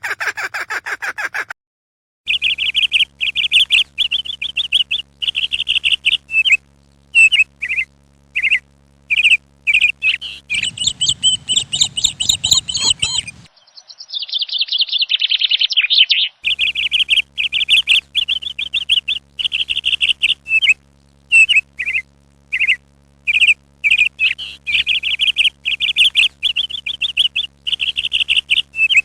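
Birds chirping in quick, repeated trilled calls, with a louder, busier burst of calling about ten seconds in.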